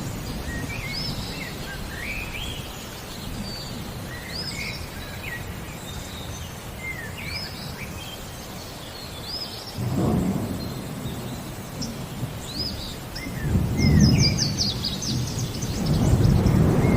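Songbirds chirping with short rising-and-falling calls, one giving a rapid trill about two-thirds of the way in, over thunder rumbling: a rumble about ten seconds in, a louder one a few seconds later, and another building near the end.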